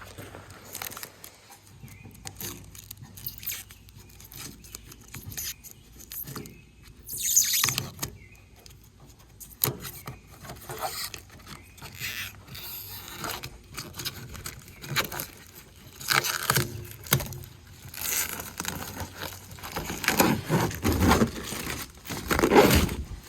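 Plasti Dip rubber coating being peeled off a truck's body by hand: irregular scraping and tearing noises, with louder rips about seven seconds in and again near the end.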